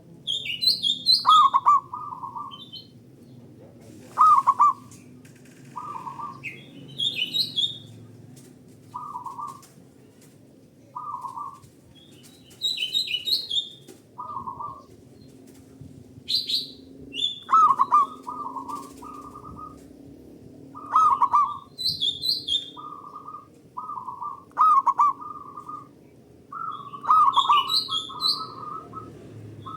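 Zebra doves (perkutut) singing, with repeated phrases of short, staccato coo notes. Bursts of higher-pitched chirping come between the phrases.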